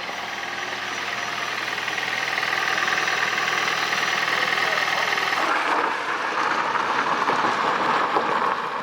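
Second-generation Toyota Prius's 1.5-litre four-cylinder petrol engine running as the car is driven slowly, charging the weak hybrid battery. The even hum grows louder over the first few seconds, then turns rougher and noisier a little past halfway.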